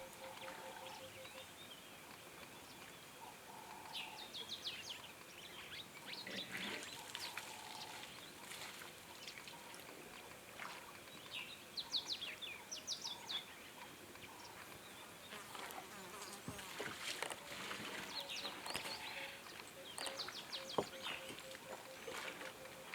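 Bush ambience: an insect buzz with scattered short, high chirping calls, in clusters about 4, 7, 12 and 17–21 seconds in.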